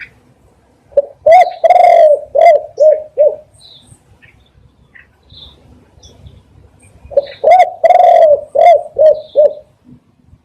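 Spotted dove cooing: two phrases of several low, hooting coos, about four seconds apart. Faint chirps of other small birds come in between.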